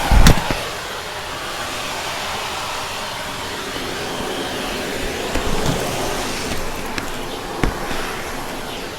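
Vacuum cleaner running over carpet with a steady rush of suction, broken by a low knock just after the start and a few short clicks and knocks as crunchy debris is sucked up.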